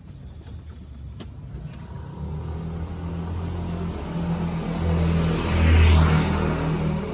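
A motor vehicle engine running, its low hum growing louder from about two seconds in to a peak near six seconds, then easing off.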